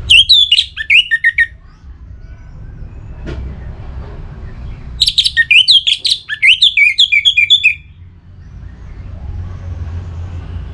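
Orange-headed thrush singing: two loud phrases of rapid, varied whistled and twittering notes, a short one at the start and a longer one about five seconds in, over a low steady hum.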